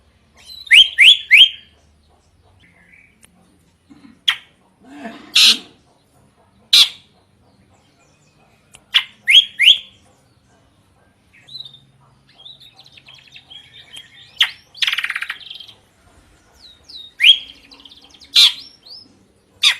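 A drongo singing a loud, varied song of sharp separate notes. Quick rising whistles come in threes, and a harsh buzzy rasp sounds past the middle.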